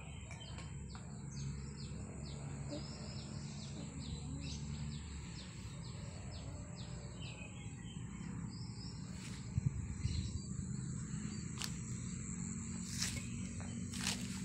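Small birds chirping in quick repeated notes, densest in the first half, over a low steady hum. A few sharp clicks come in the second half.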